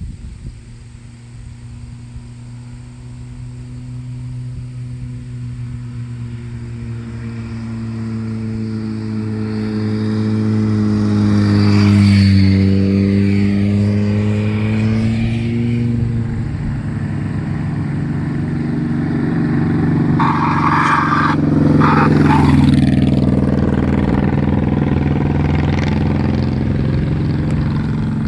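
Motorcycle engines running, getting louder over the first twelve seconds, with the engine note dipping and then rising again. Later a second engine note joins, with a short burst of hiss about twenty seconds in.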